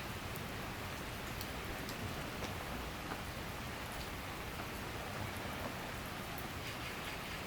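Steady summer downpour, rain pattering on surfaces with scattered individual drip ticks.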